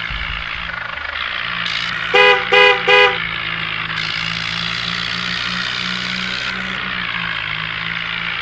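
A vehicle horn sounds three short, loud toots in quick succession about two seconds in, over a steady engine hum.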